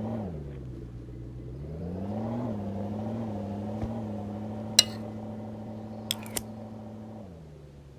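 A steady machine hum that rises in pitch about two seconds in, holds, and winds down near the end, with a few sharp clicks in between.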